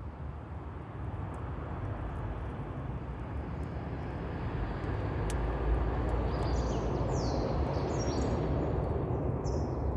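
Wood campfire burning with scattered sharp crackles over a steady low rumble. Birds chirp in short high calls from about six seconds in.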